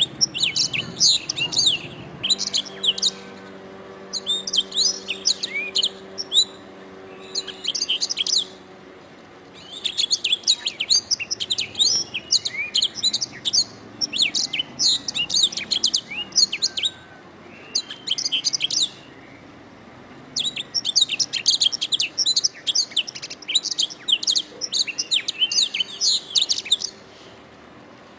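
Domestic canary singing: phrases of several seconds of rapid, high-pitched trills and chirps, broken by short pauses.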